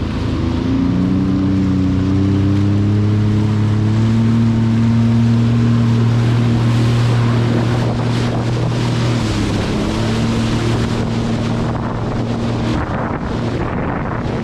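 Sea-Doo GTR 230 jet ski running at speed with a steady engine drone, over a rush of water and wind on the microphone. The engine note dips briefly about nine seconds in, then steadies again.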